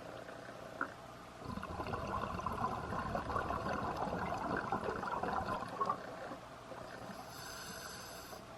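Scuba diver breathing through a regulator underwater: a gurgling rush of exhaled bubbles for about four seconds, then a short hissing inhale near the end.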